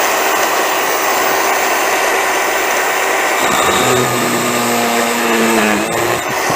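Power drill running steadily into a brass water heater pop-off valve to drive its internals out, its motor pitch changing briefly about four seconds in.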